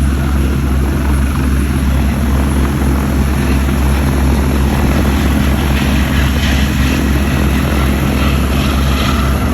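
Eurocopter Dauphin twin-turbine helicopter running, with a steady, loud rotor and turbine drone.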